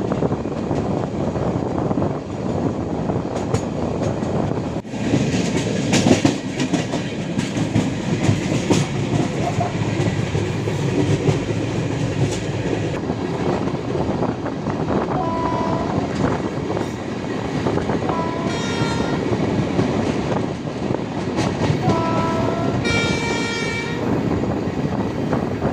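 Express passenger train running at speed, the wheels rumbling and clattering over the rail joints. A train horn sounds three times in the second half, the last blast the longest.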